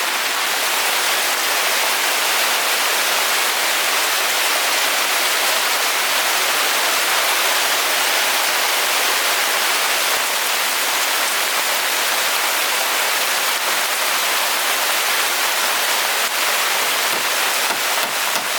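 Steady, even hiss of falling water, unbroken throughout, with a few light taps coming in near the end.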